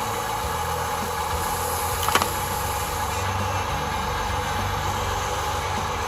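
Radio-controlled toy construction vehicle running with a steady mechanical hum, with one sharp click about two seconds in.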